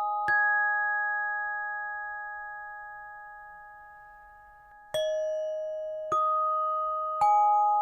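Sonor TAG25 tenor-alto glockenspiel: single notes struck with a mallet, one near the start, then after a long ring three more about a second apart. Each note rings on and fades slowly, at a different pitch.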